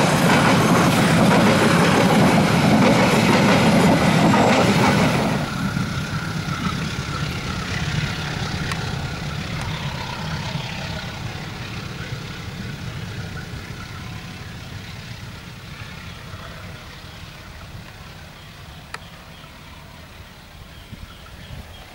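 Indonesian passenger train (Bangunkarta) rolling past close by, loud, its wheels running on the rails. About five seconds in the sound drops abruptly, then fades steadily as the train moves away round a curve.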